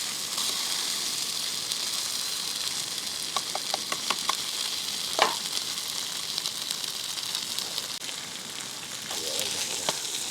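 Food sizzling steadily in a frying pan on a camp stove, with a few light clicks about three to four seconds in and a sharper knock about five seconds in.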